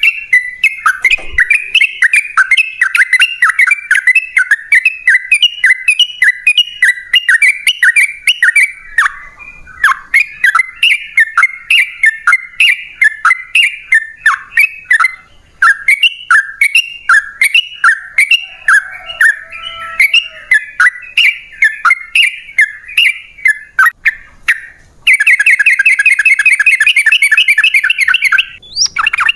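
Yellow-vented bulbul song: loud, repeated bubbly chirping phrases with short breaks, turning into a fast, dense run of notes near the end.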